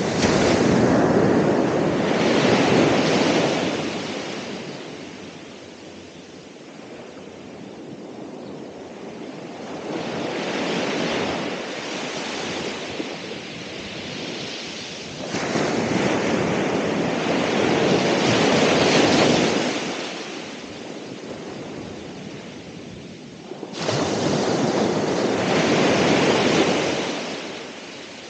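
Ocean surf breaking on the shore: three loud crashes of waves, each swelling and fading over a few seconds, with a softer wave in between and a low rush of water in the lulls.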